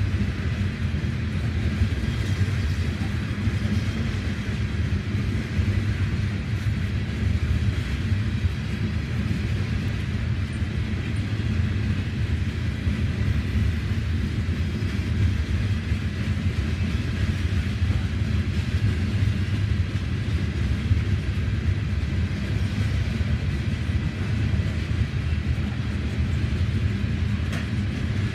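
A freight train of coal hopper cars rolling past, giving a steady low rumble of wheels on the rails.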